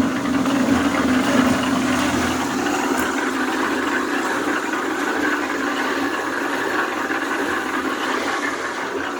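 Steady rush of running water. A low hum at the start fades about two and a half seconds in.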